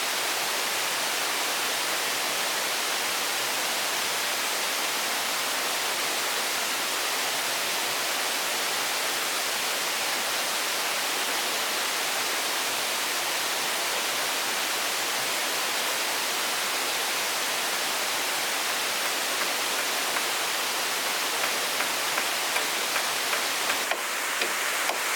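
Steady, even rushing noise with no clear pitch, joined by a few sharp clicks in the last few seconds.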